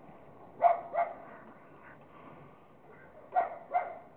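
A dog barking: four barks in two pairs, one pair near the start and one near the end.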